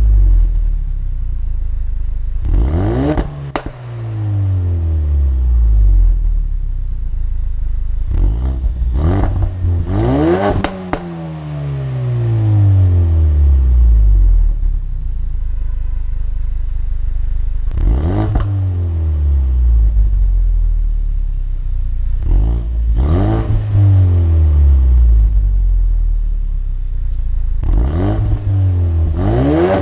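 Stock exhaust of a 2018 Ford Focus RS with its 2.3-litre turbocharged four-cylinder, revving up sharply about five times, each time falling back gradually to a low, steady hum.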